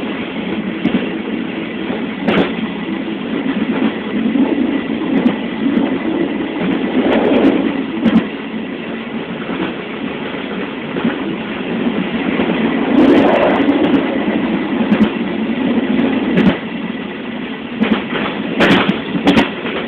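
Open rail car running along the track: a steady rumble and rattle, with a sharp clack now and then.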